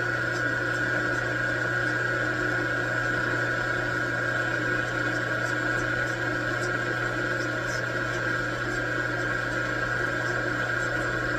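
Metal lathe running steadily, its motor giving a constant hum with a steady high whine and faint small ticks.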